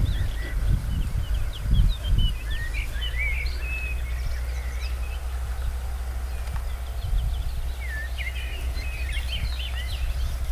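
Small birds chirping in two short bouts, quick rising and falling notes, over a steady low rumble. A few soft thumps come in the first two seconds.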